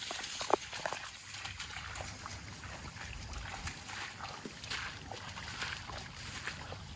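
Water sloshing and splashing in irregular bursts, with one sharp knock about half a second in.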